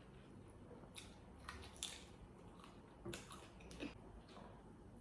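Faint close-up eating sounds: chewing with several short wet mouth smacks and clicks, the sharpest a little under two seconds in.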